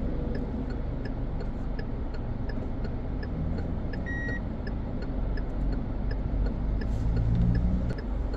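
A car's engine and tyre rumble heard from inside the cabin while driving, with a steady ticking of the turn-signal indicator. A short, high electronic beep sounds once about four seconds in.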